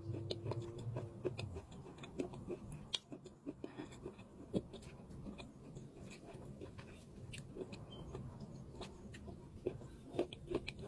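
Chalk being chewed close to the microphone: scattered small crunches and clicks at an uneven pace, with a low hum in the first second and a half.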